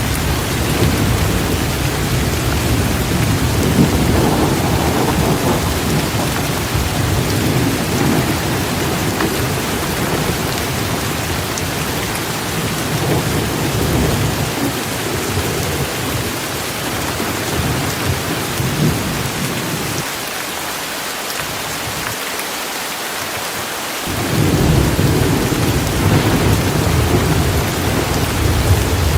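Steady rain with thunder rumbling low underneath. The rumble dies away about twenty seconds in, leaving only the rain's hiss, then swells back a few seconds later.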